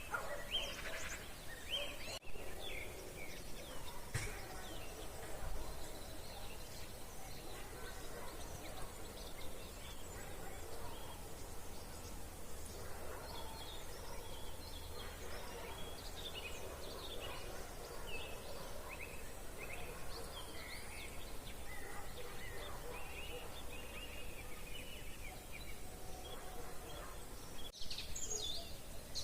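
An evening chorus of songbirds from nearby woodland: many short chirps and trills overlapping without a break.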